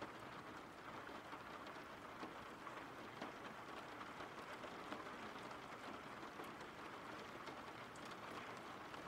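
Faint, steady rain falling, with scattered drops ticking through it.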